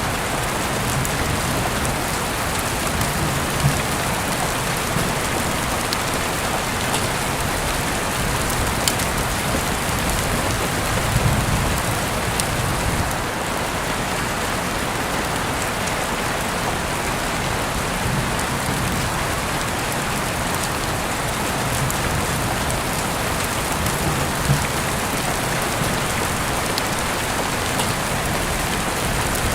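Heavy rain falling steadily, an even hiss with a few sharper drop ticks.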